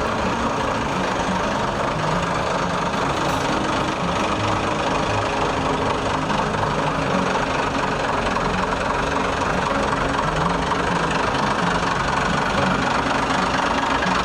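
A vehicle engine running steadily, with a dense, even noise and a low rumble that neither starts nor stops.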